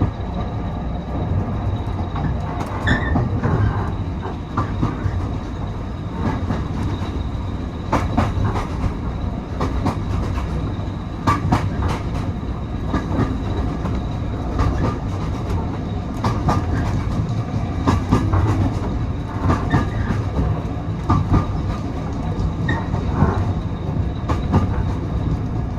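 Railway passenger carriage running along the track: a steady low rumble, with irregular sharp clicks of the wheels over rail joints and a few brief high squeaks.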